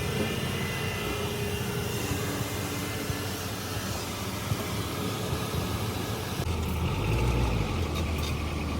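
A motor running steadily, with a few steady tones over a broad mechanical noise; a deeper, louder low rumble comes in about six and a half seconds in.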